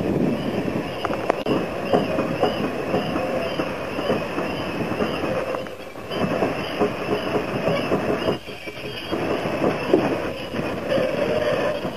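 Passenger coaches rolling slowly through a mechanical brush carriage washer: a steady rumble with scattered knocks and clacks, over a high squeal that wavers up and down. The level dips briefly twice, about six and eight and a half seconds in.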